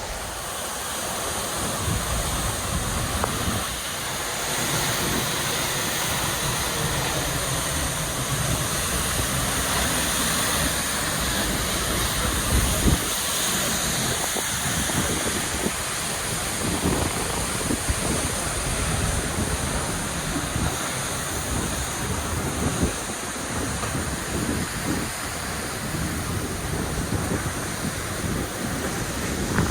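Seljalandsfoss waterfall's steady rush of falling water, heard from close behind the falls, with irregular low rumbles of wind buffeting the microphone.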